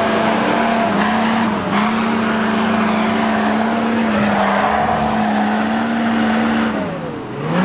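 An off-road 4x4's engine revving hard and held at high revs, dipping briefly twice. Near the end the revs drop, then climb again.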